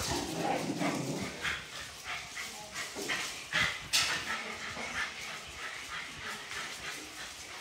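Several shelter dogs at play, making scattered short barks and whines, the loudest about three and a half to four seconds in.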